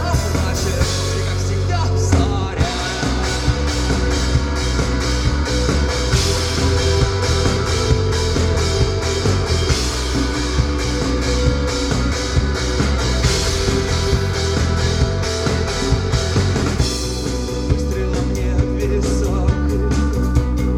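Rock band playing live, with a drum kit keeping a steady beat under full band instruments.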